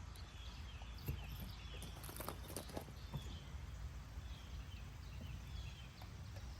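Outdoor background: a steady low rumble with short, high chirps repeating throughout, and a few sharp clicks or jingles about one to three seconds in.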